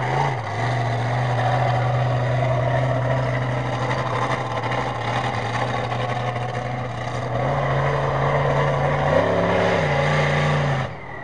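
Bigfoot monster truck's engine running, mostly steady, stepping up in pitch about seven seconds in, with a short rev about nine seconds in before the sound drops away near the end.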